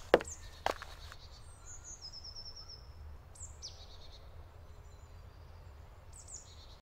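Woodland birds calling: a quick run of repeated high notes about two seconds in, a falling whistle a little later, and a few short calls near the end, over a steady low rumble of outdoor ambience. Two sharp knocks sound in the first second and are the loudest thing.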